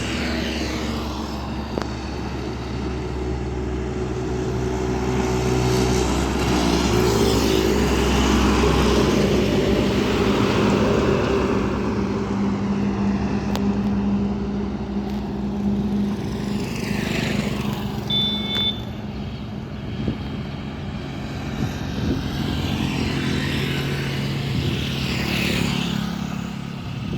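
Trucks driving past on a road: engines running with a steady low drone, and the noise swells and fades as each one passes. A brief high-pitched tone sounds about two-thirds of the way through.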